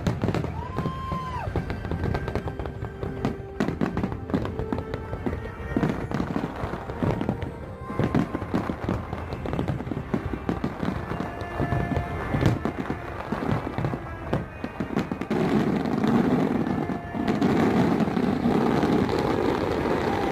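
Fireworks display: many irregular bangs, pops and crackles from bursting shells, with music playing behind them. A short whistle sounds about a second in, and in the last few seconds the bursts merge into a denser, steadier noise.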